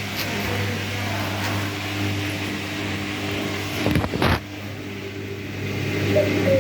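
Whirlpool washing machine running on its spin cycle: a steady motor hum over a noisy rush from the turning drum, with a few sharp knocks about four seconds in.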